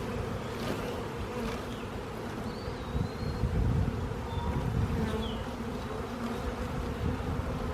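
Honey bees buzzing steadily en masse, a colony shaken off its frames and milling around an open hive box.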